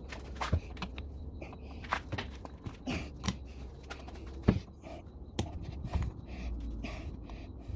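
Irregular knocks and clicks over a low rumble. The sharpest come about half a second, two seconds and four and a half seconds in.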